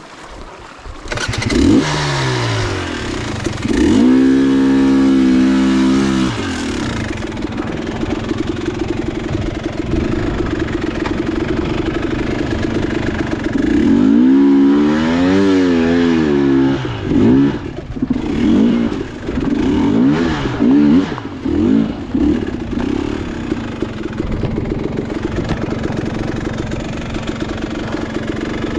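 Dirt bike engine revving. It comes up about a second in, holds high revs for a couple of seconds, swings up and down in pitch midway, then gives several short blips before settling into a steadier run.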